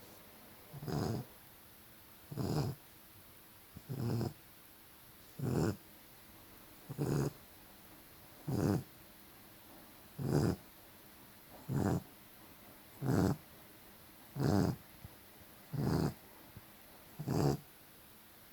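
Bloodhound puppy snoring: short, rough snores in a steady rhythm, about one every one and a half seconds.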